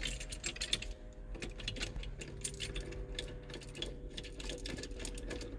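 Steel bolts and washers of a steering wheel puller clinking and ticking against the puller and steering wheel as they are threaded in by hand: many small irregular metallic clicks, over a faint steady hum.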